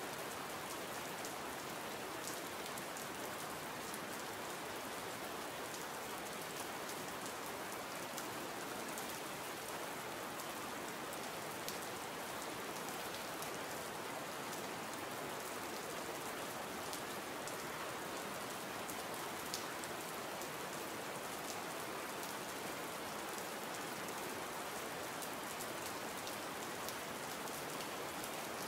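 Steady rain falling, an even hiss with many small, sharper drop ticks scattered through it.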